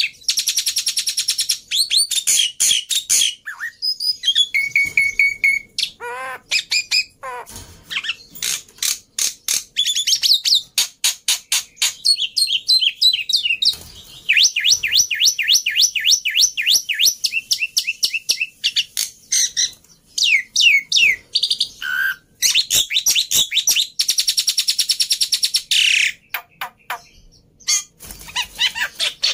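Black-winged myna (jalak putih) singing in full voice: a long, varied run of rapid repeated chattering notes, harsh rasping calls and a few short gliding whistles, broken by brief pauses.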